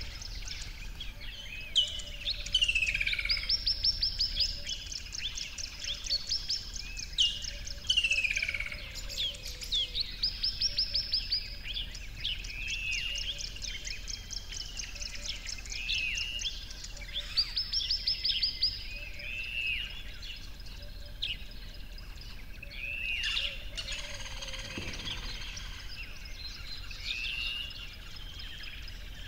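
Several songbirds singing: repeated fast, rattling trills and short down-slurred whistles that recur every few seconds.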